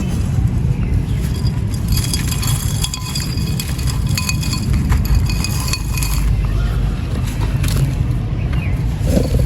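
Dry, sandy clay crumbling and crunching, with many small gritty crackles and clinks over a steady low rumble.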